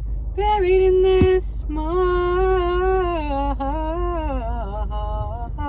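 A woman's voice singing slow, long-held notes without clear words, sliding down in pitch about four seconds in, over a steady low hum.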